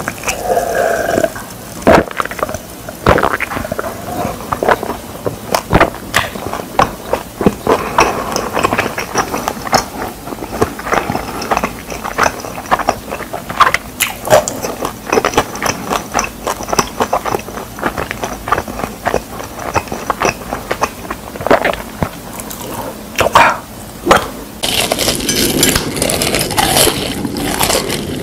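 Close-miked mouth sounds of eating: gulps of cola at first, then wet chewing of pizza with frequent sharp mouth clicks. About four seconds before the end a brighter, steady hiss comes in.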